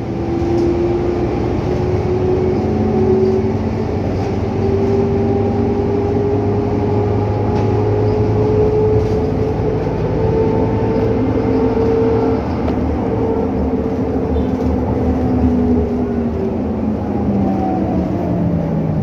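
Scania K310UA articulated city bus heard from inside the passenger cabin, its engine and drivetrain note rising slowly in pitch as it pulls away and gathers speed for about twelve seconds, then falling near the end as it eases off, over a steady road rumble.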